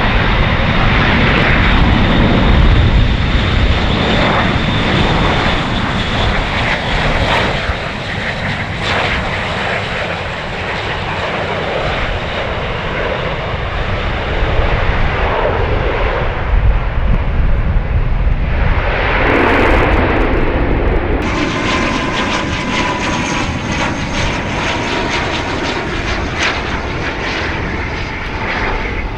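Airbus A400M's four turboprop engines running loud and steady. About two-thirds of the way through, a cut switches to another turboprop, an ATR 72, with a steady high whine over its engine noise.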